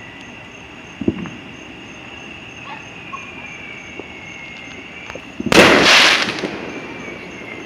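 Fireworks going off: a single sharp pop about a second in, then a loud burst about a second long starting about two-thirds of the way through.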